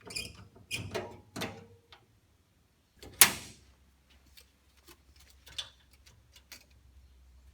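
Metal handling in a shop: a few knocks and clicks, then one loud ringing clang about three seconds in as the steel bar is set down or clamped for cutting, followed by lighter clicks. A low steady hum starts with the clang.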